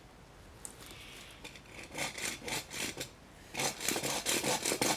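Hand saw cutting through a tree limb with rasping back-and-forth strokes. The strokes start about two seconds in and come faster and louder about a second later.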